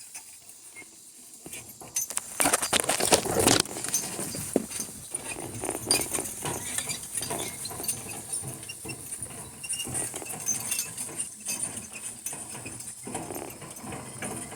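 Harnessed donkey team walking on through brush: rustling vegetation, footfalls and a jingling of harness, starting about two seconds in and loudest for a second or two before going on irregularly.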